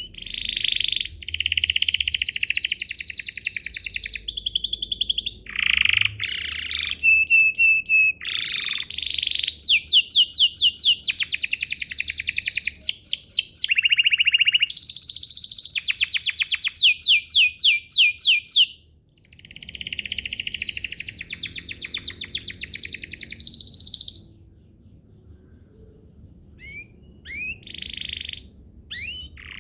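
Domestic canary singing a long song of fast trills, rapid repeated rising sweeps and short held notes, breaking off briefly about three quarters of the way through and resuming with scattered chirps.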